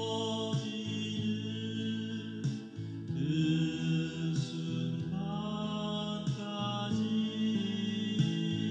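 A solo voice singing a slow Korean ballad in long held notes over a steady backing accompaniment.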